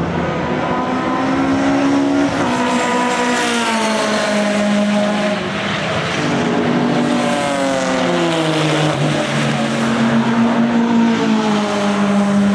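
Racing saloon and sports car engines at full throttle, several at once, their pitch climbing and dropping again and again as the drivers accelerate and change gear.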